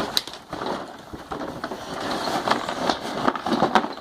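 Packaging being handled while a present is unwrapped: irregular rustling and crackling with many small clicks.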